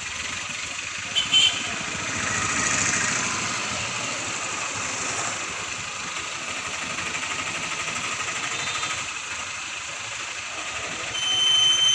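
Diesel engine of an Escort Hydra crane running steadily, with two short sharp clicks about a second in and a brief high-pitched tone near the end.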